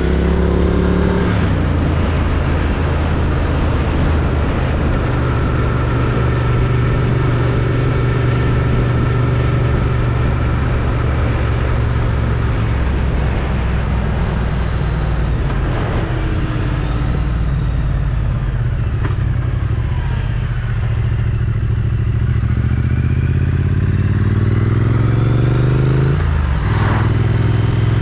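Triumph Street Twin's 900 cc parallel-twin engine through its stock exhaust, heard while riding, with wind rush over the helmet. It pulls up through the gears with an upshift about a second in, cruises steadily, eases off after the middle, then accelerates again with another upshift near the end.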